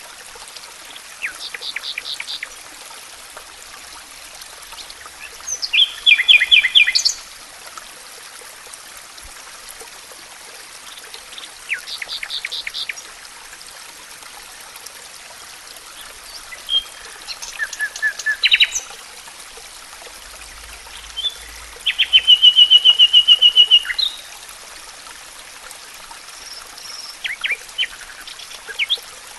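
A songbird singing short phrases of quick repeated notes, about one phrase every five seconds, over the steady rush of a flowing stream.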